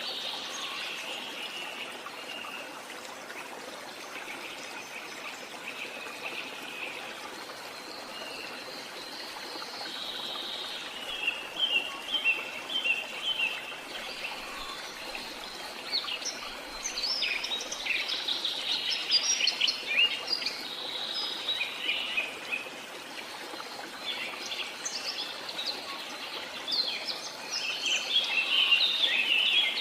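Birds chirping and calling over a steady wash of running water. The calls come in busy clusters, thickest in the second half.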